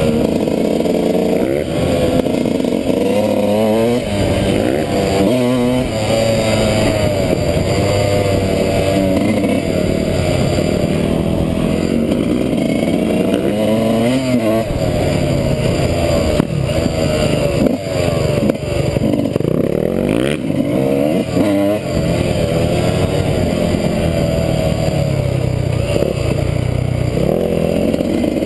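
Dirt-bike engine being ridden hard off-road, revving up and falling back again and again with gear changes and throttle. A few knocks from the bike over rough ground come around the middle.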